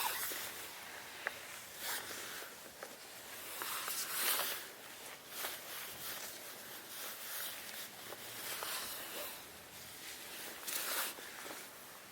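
Irregular rustling and scrubbing strokes with a few small clicks and taps: hand cleaning work inside a truck cab, with no machine running. The strongest strokes come about four seconds in and again near eleven seconds.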